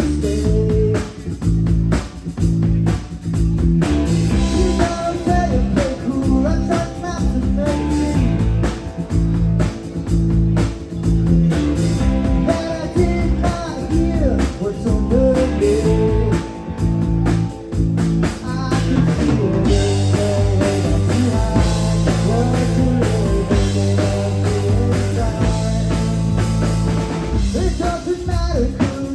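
Live rock band playing a bluesy song: drum kit, electric guitar and a singer's voice.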